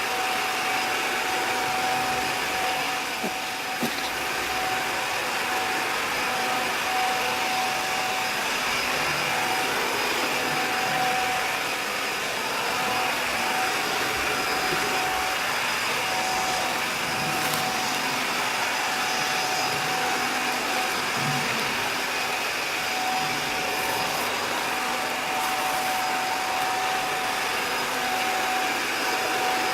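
Robot vacuum cleaner running: a steady motor and fan whir with a constant whine.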